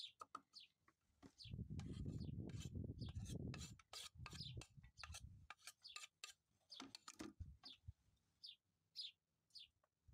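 Small bird chirping over and over, short high notes that fall in pitch, thicker in the first half and sparser near the end. A low muffled noise runs under the first half for a few seconds.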